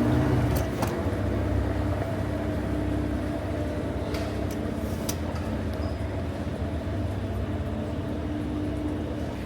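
Steady low rumble with a constant hum, like a vehicle or large machine running, with a few faint clicks.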